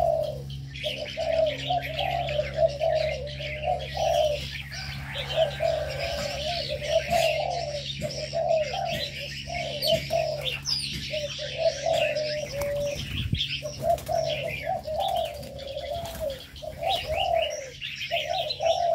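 Several doves cooing almost without a break, over a dense, continuous chatter of many small birds chirping.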